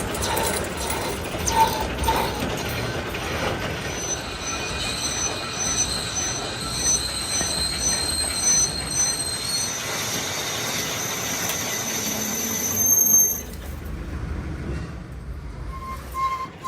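Metal-cutting machine tool at work on a steel crankshaft, with a steady noise of cutting. About four seconds in, a high-pitched metallic squeal of tool on workpiece joins it. Near the two-thirds mark the squeal rises briefly and stops, leaving a quieter machine noise.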